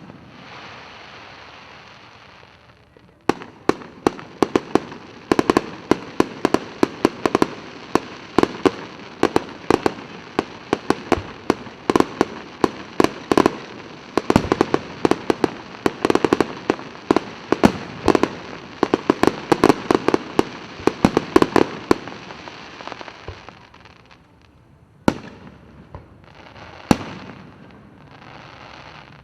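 Fireworks display: a crackling hiss for the first few seconds, then a dense, rapid barrage of bangs for about twenty seconds, thinning out to a few single bangs near the end.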